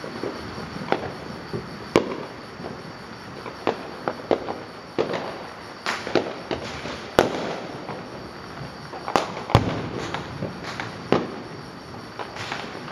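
Fireworks going off: a dozen or more sharp bangs and cracks at irregular intervals, some close together, over a steady background rumble.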